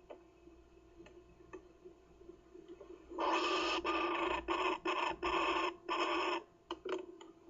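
Kookaburra chick giving a harsh rasping call in a run of short bursts, starting about three seconds in.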